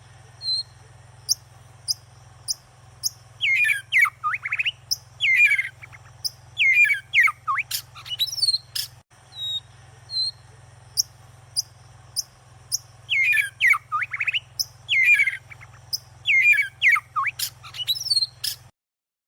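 Birds calling: repeated downward-sweeping calls mixed with short, high chirps over a low steady hum. About halfway through there is a brief break, and then the same stretch of calls plays again.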